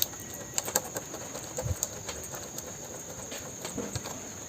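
Scattered light clicks and knocks from a repaired plastic motorcycle fairing being handled and pressed.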